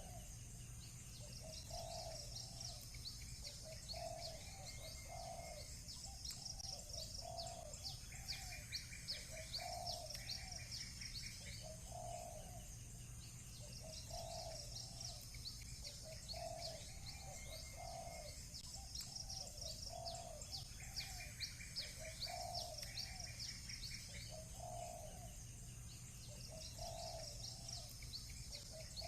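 A dove cooing in short repeated notes, about one a second, over many small birds chirping high and fast, with occasional buzzy trills.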